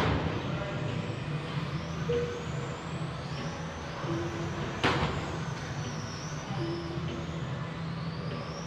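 Electric RC touring cars running laps on a race track, their motors making thin whines that rise and fall in pitch as the cars pass. There are two short, sharp noisy bursts, one right at the start and one about five seconds in.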